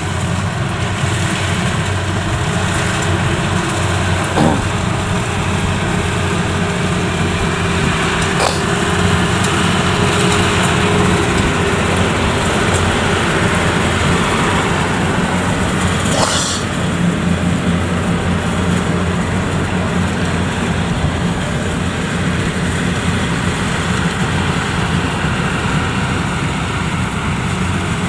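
Yanmar YH85 combine harvester's diesel engine running steadily, with three brief sharp knocks over it at about 4, 8 and 16 seconds in.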